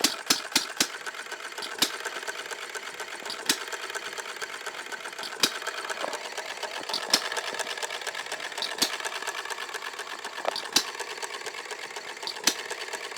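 Model hit-and-miss engine running: a few firing pops close together at first, then a steady fast mechanical clatter while it coasts, broken by a single sharp firing pop about every second and a half to two seconds, the governor letting it fire only when it slows.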